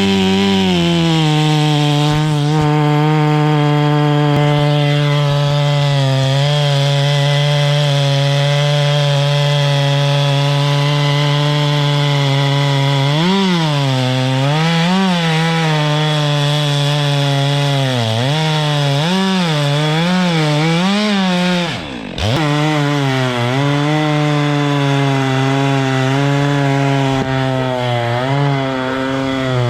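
Chainsaw running at high speed. For much of the middle the engine pitch sags and recovers again and again as the chain cuts into wood under load. Near two-thirds through there is a brief drop in sound.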